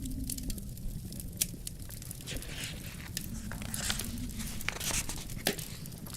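Wood fire crackling with irregular snaps and pops and brief hisses, over a low, steady rumble of wind.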